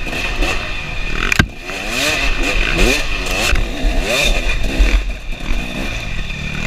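KTM 300 two-stroke dirt bike engine revving up and down over and over under hard riding through the woods, with a sharp knock about a second and a half in.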